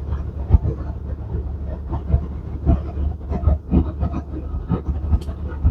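Semi-truck's diesel engine pulling uphill under load, a steady low drone heard from inside the cab, with frequent irregular knocks and rattles over it.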